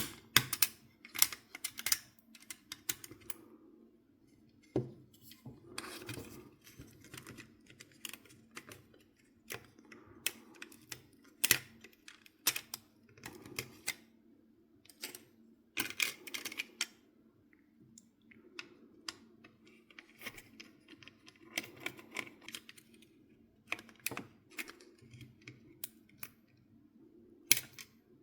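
Irregular sharp clicks and taps with short scrapes in between: small hard parts of a PS4 FAT console being handled and fitted by hand.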